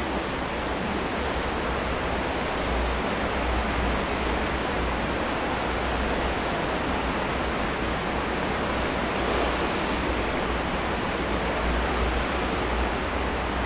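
Steady rush of flowing water in a concrete tunnel: an even, unbroken hiss with a low rumble underneath.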